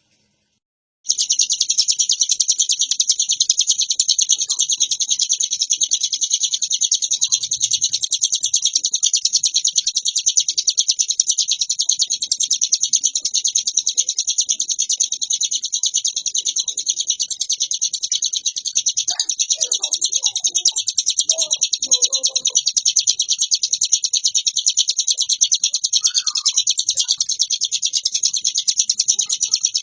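Ciblek gunung (bar-winged prinia) singing nonstop: a rapid, unbroken, high-pitched chattering song with varied notes, starting after about a second of silence.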